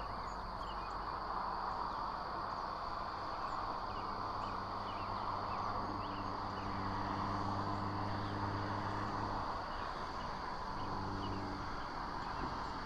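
Outdoor ambience at a nest camera: a steady insect trill with faint, scattered bird chirps over a broad background rush. A low engine drone comes in about six seconds in, fades out a few seconds later, and briefly returns near the end.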